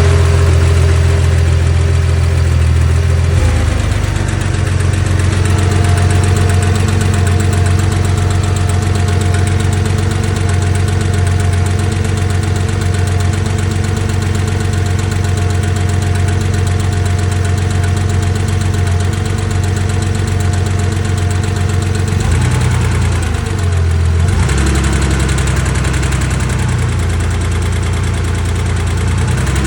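Porsche 911 2.4 MFI air-cooled flat-six engine idling with a fast, even tapping/ticking noise coming from the engine. The idle speed shifts a few seconds in and changes briefly again around 23 seconds in.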